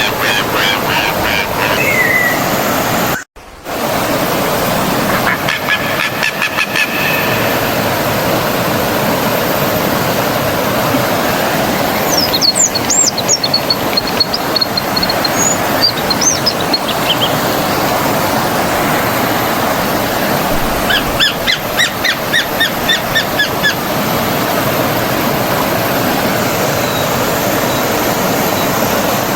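A stream of running water flows steadily with birds calling over it: a few short runs of repeated notes and some higher chirps. The sound cuts out for a split second about three seconds in.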